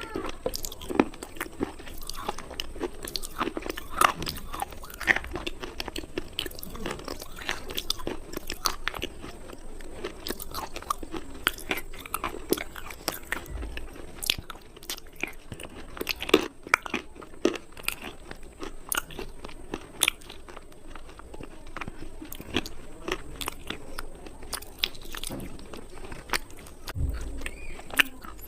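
Slate pencils being bitten and chewed close up: a continuous irregular run of short, sharp crunches.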